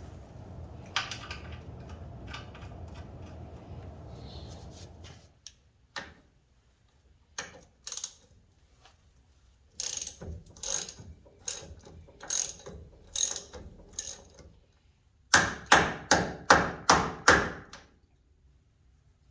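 Hand ratchet wrench clicking in strokes, a loose run of clicks followed by a louder quick run of five or six near the end. A steady low rumble underlies the first few seconds.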